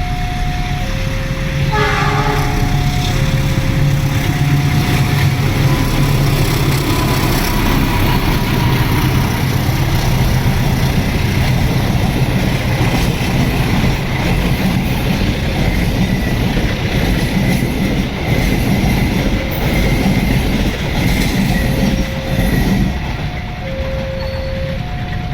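A CC206 diesel-electric locomotive sounds its horn briefly about two seconds in, then runs through at speed hauling its coaches. The engine and wheels make a heavy rumble, and wheels click over the rail joints as the coaches go by. An alternating two-tone electronic warning signal is heard at the start and again near the end.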